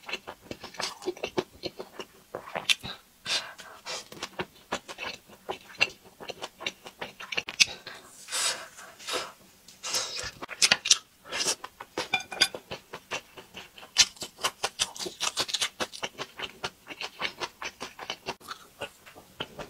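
Close-miked eating sounds: wet smacking and clicking of a mouth biting into and chewing pan-fried beef-filled buns (shengjian bao), many quick irregular smacks with short breaths between.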